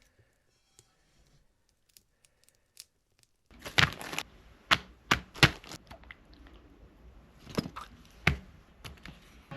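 A series of about six sharp knocks and cracks, irregularly spaced, starting about three and a half seconds in, with rustling between them.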